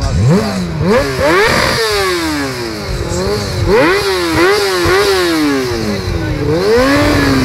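Yamaha sportbike's inline-four engine revved while standing still, through an aftermarket slip-on exhaust: a rise from idle, then repeated throttle blips, a quick run of short blips in the middle, and a slower rise and fall near the end.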